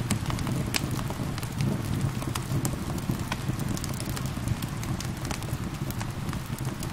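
Wood fire crackling with frequent sharp irregular pops over a steady low rumble, with rain falling beneath it.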